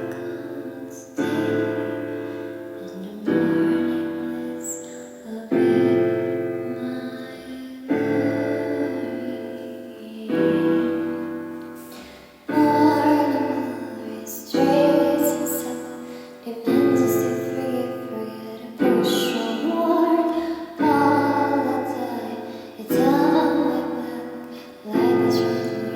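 Music: piano chords struck about every two seconds, each ringing out and fading before the next, with a female voice singing without clear words in places.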